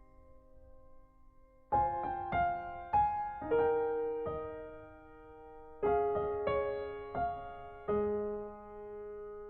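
Soft background piano music: a held chord fading away, then from about two seconds in a slow melody of struck notes that ring and decay.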